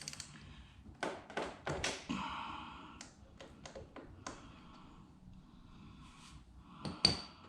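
Hand tools working on the scooter's small gear-oil drain plug: a series of sharp metallic clicks and taps as the plug is wrenched loose, with one loud ringing clink about seven seconds in.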